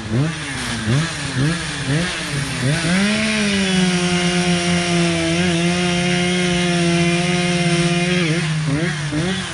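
Echo two-stroke chainsaw blipping the throttle, then held at full throttle for about five seconds, its pitch pulling down a little as the chain loads in the wood, then back to quick throttle blips.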